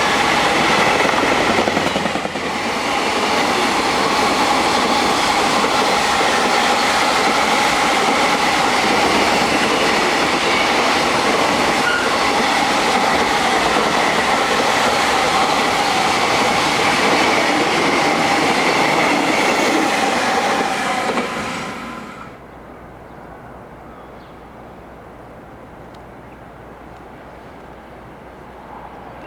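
High-speed freight train passing at speed, its wagons rattling and clattering over the rails, with steady whining tones above the noise. The sound cuts off fairly quickly about three-quarters of the way through as the last wagon clears, leaving quiet background.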